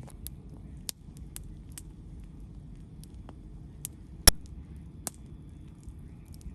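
Wood campfire crackling, with scattered sharp pops over a low steady rumble; one pop about four seconds in is much louder than the rest.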